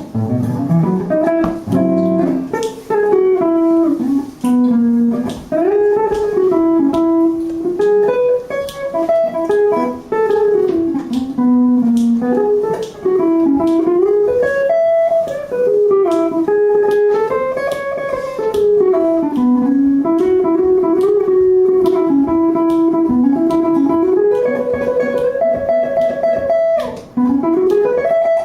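Guitar solo played live as a single plucked melodic line, winding up and down in a bluesy, jazzy style. It runs without the looped accompaniment that the guitarist meant to bring in with the looper pedal but forgot to step on.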